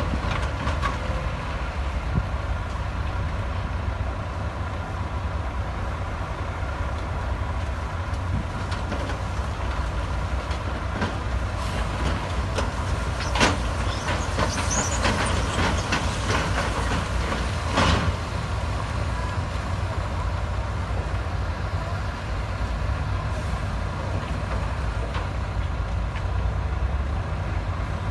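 Heavy diesel earthmoving machinery running steadily with a low rumble. About halfway through, a few seconds of metallic clanking and high squealing rise over it.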